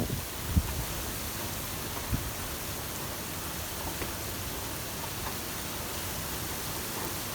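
Tropical-storm rain falling steadily in a downpour, with two short low thumps about half a second and two seconds in.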